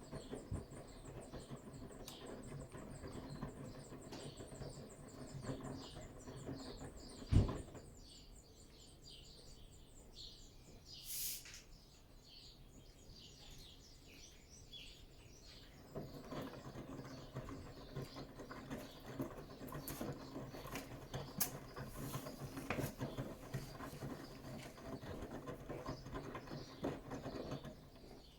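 Bosch WAT286V0 washing machine with its EcoSilence Drive motor in the wash phase of a 90 °C cycle: the drum turning with the wet laundry tumbling and sloshing, and a single thump about seven seconds in. The drum then rests for several seconds, with a brief hiss in the pause, before it turns again.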